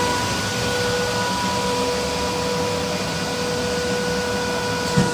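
CNC glass-cutting machine running, a steady whine over a constant hiss, with a brief knock near the end.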